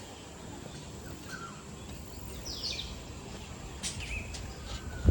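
Birds calling over a steady background hum: a few short, falling whistled notes and sharp chirps, the clearest about halfway through and near the end.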